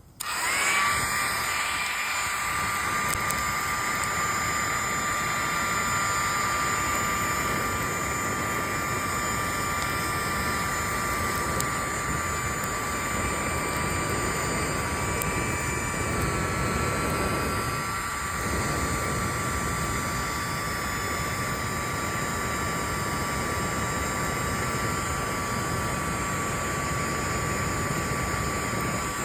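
LOGOS campfire blower switched on, its small electric fan spinning up in a fraction of a second and then running steadily with a high whine and a rush of air, blowing into a fire to revive it.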